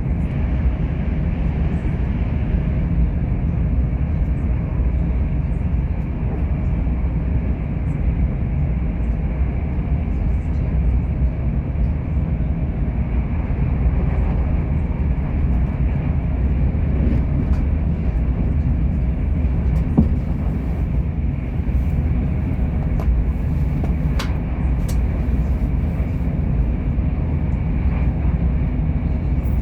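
Great Western Railway train running at about 200 km/h: a steady low rumble of wheels on rail, with a few faint clicks after the middle.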